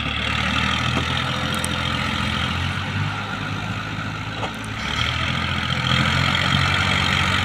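Tractor diesel engine running steadily, getting louder about five seconds in.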